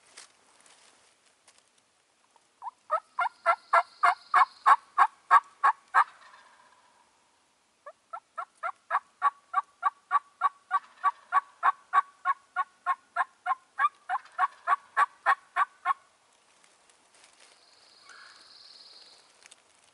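Turkey yelping in two long, rapid runs of evenly spaced notes, about six a second: one of roughly three seconds, then after a short pause a longer one of about eight seconds.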